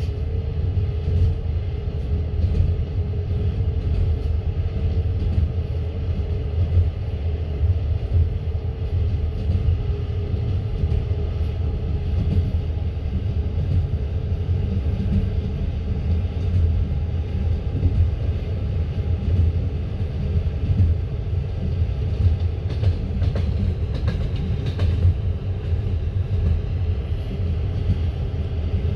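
Passenger train carriage running at speed: a steady low rumble of the wheels on the rails, with light, irregular clicking of the wheels and running gear, heard from inside the car.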